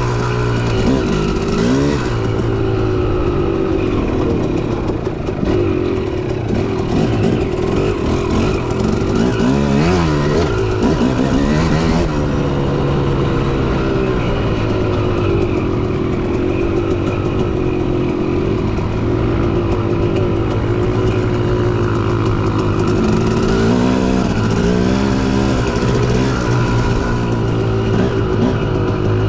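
Dirt bike engine running while riding a trail, its pitch rising and falling again and again with throttle and gear changes.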